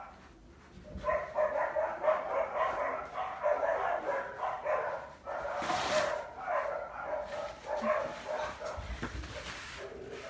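Five-week-old Goldendoodle puppies barking and yipping repeatedly in a steady run of short, high calls, starting about a second in.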